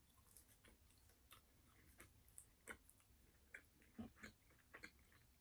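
Quiet chewing of French fries: soft, irregular crunches and wet mouth clicks.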